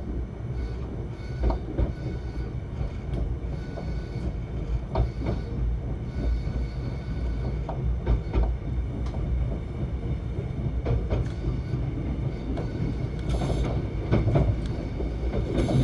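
Mugunghwa-ho passenger train running, heard from inside a carriage: a steady low rumble, with wheels clicking over rail joints every few seconds and a louder rush of noise near the end.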